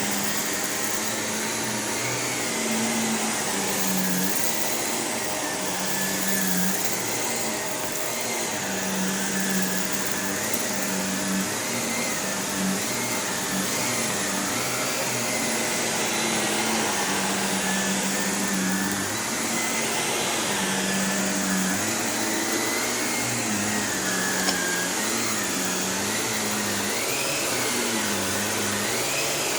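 Shark Navigator Lift-Away NV351 upright vacuum running steadily while vacuuming carpet, its motor hum wavering up and down in pitch throughout.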